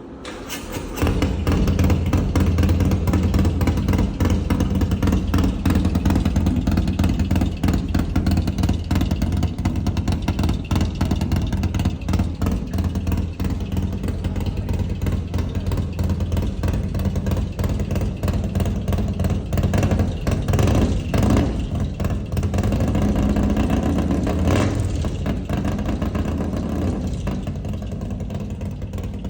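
Harley-Davidson V-twin motorcycle with a custom exhaust and T-Man air filter starting up about a second in, then running loud, with a few throttle revs in the second half.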